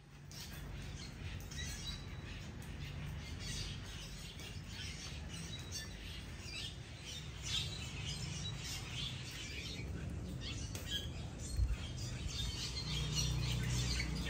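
Birds chirping over a steady, low outdoor hiss.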